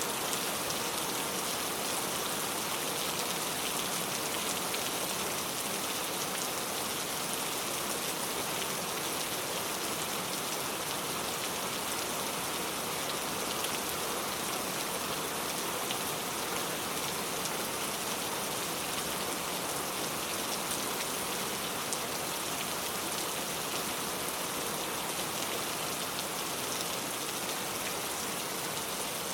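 Steady rain falling, a continuous hiss with many fine drop ticks.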